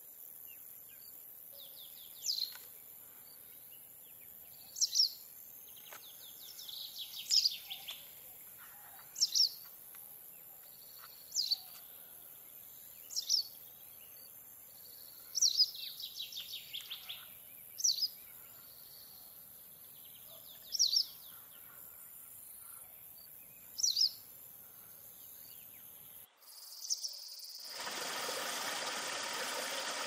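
A bird calling: a short, sharp, high call repeated about every two to three seconds, some calls with a buzzy twitter around them, over a steady high hiss of insects. Near the end the sound cuts to the steady rush of running water.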